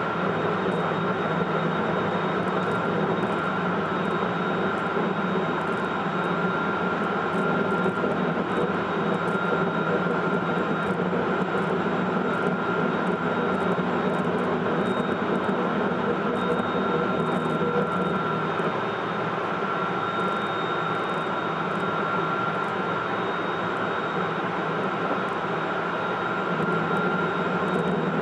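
Hokuetsu Express HK100 electric railcar running at a steady speed, heard from inside the motor car: a constant rumble of wheels on rail with a steady high whine from its Mitsubishi IGBT-VVVF and MT68 traction-motor drive.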